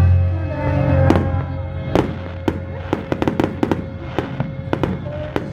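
Fireworks going off: separate bangs about a second apart, then a quick run of crackling pops about three seconds in, over music playing in the background.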